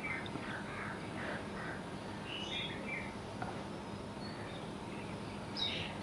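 Scattered short bird chirps over a steady background hiss of outdoor ambience, at a quiet level.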